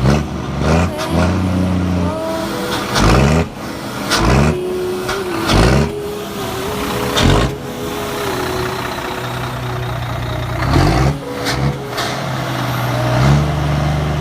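Scania truck's diesel engine revving in repeated rising surges, with held steady revs between them and sharp hissing bursts as each surge drops.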